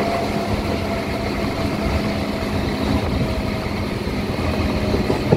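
Local electric train running along the line: a steady rumble mixed with strong wind buffeting the microphone.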